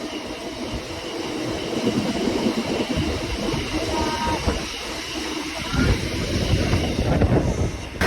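Freight train hauled by a Class 60 diesel locomotive running through the station: a steady rumble of the passing train, growing louder about six seconds in.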